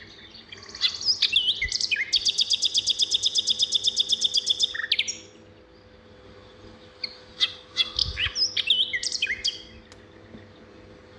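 Songbirds calling: a fast trill of evenly repeated high notes, about eight a second, for about three seconds, then a pause and a scatter of short chirps and whistles.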